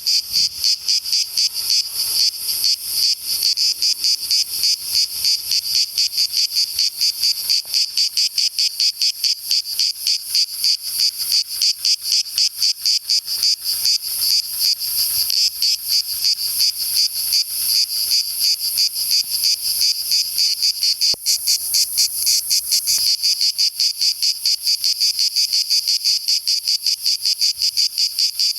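Cicadas singing in a loud, high-pitched chorus that pulses rapidly, about four pulses a second, without a break.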